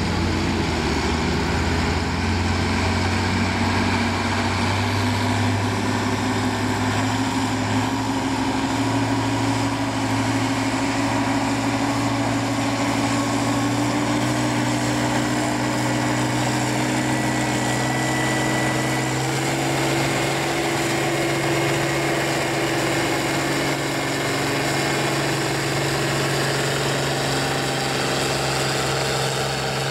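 Farm tractor's engine working under heavy load during a pull, running steadily with its pitch slowly climbing over the first two-thirds, then holding level.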